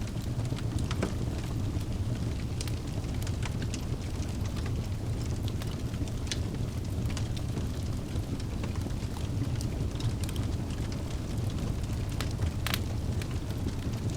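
Wood fire burning in a fireplace: a steady low rumble of the flames with frequent scattered crackles and pops of the burning logs, one sharper pop near the end.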